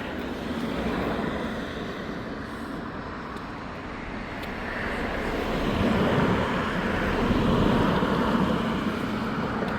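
Passing vehicle noise, a steady rumble and hiss that swells and fades, loudest about six to eight seconds in.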